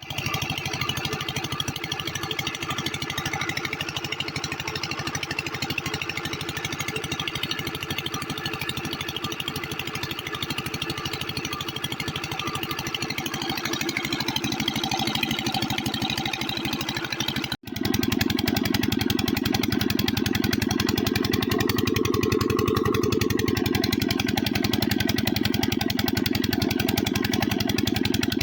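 Kranti single-cylinder diesel water pump engine running steadily, with a fast, even beat of firing strokes. The sound drops out for an instant about two-thirds of the way through and comes back heavier and deeper.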